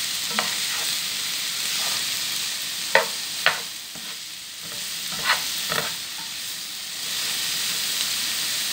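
Parboiled broccoli sizzling in a nonstick frying pan as it is stir-fried: a steady hiss with a few sharp clacks and scrapes of the spatula against the pan, the loudest about three seconds in.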